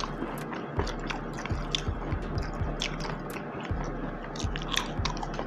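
Close-up chewing and biting, with wet mouth clicks and small crunches of food.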